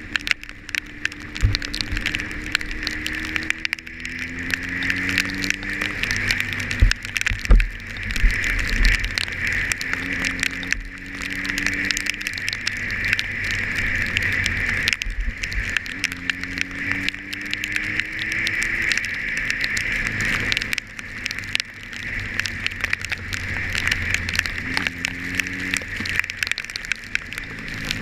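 Motorcycle engine pulling up in pitch in several spurts as it accelerates. Over it runs a steady hiss and crackle of rain and wind on the camera, with a few low thumps from bumps or buffeting.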